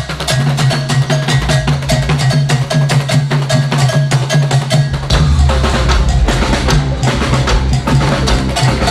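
Axé music from a live band with no singing: busy, fast percussion over a bass line, the low end growing heavier about five seconds in.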